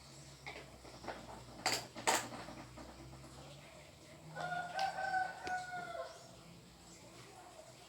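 Two sharp clicks, about half a second apart, then a rooster crows once, a level call of about two seconds in the second half.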